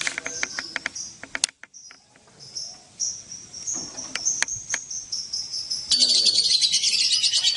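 Lovebirds chirping with sharp clicks. About six seconds in, a loud, fast, continuous trilling chatter sets in abruptly.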